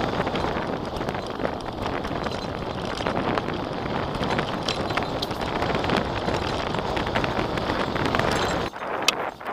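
Strong wind buffeting the microphone of a camera riding on a moving recumbent bicycle, with rattling clicks and knocks from the bike. The low rumble of the wind cuts away suddenly near the end.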